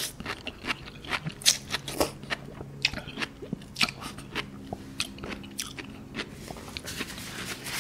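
Close-miked chewing of a mouthful of raw sea grapes (latok): the small beads crunch and pop between the teeth in a quick, irregular run of wet clicks, which thin out near the end.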